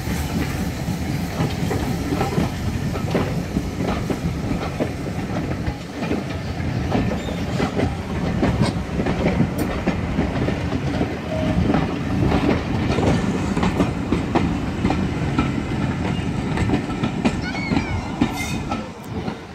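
Steam-hauled passenger coaches rolling slowly past, their wheels clicking over the rail joints over a steady rumble. A few short high squeaks come near the end.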